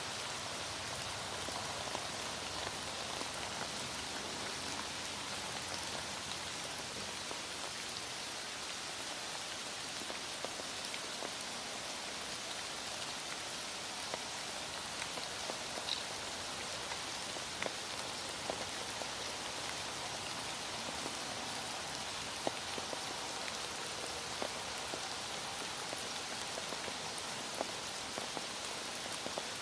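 Heavy rain falling steadily, with scattered individual drops ticking against a surface.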